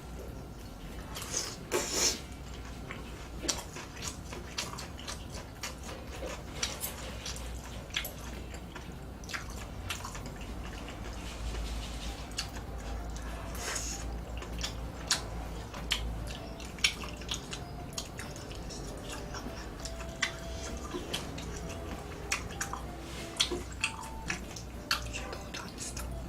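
Wet eating sounds from close up: chewing and smacking of the mouth, with many scattered sharp clicks and ticks.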